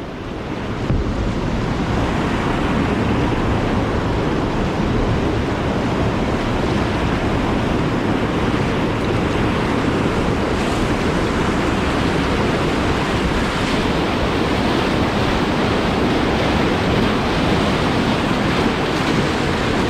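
Steady rush of whitewater pouring through a river rapid and hole.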